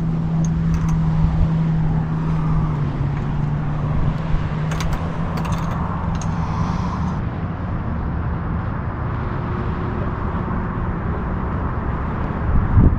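An engine runs steadily as a low, even hum whose pitch shifts slightly about three seconds in.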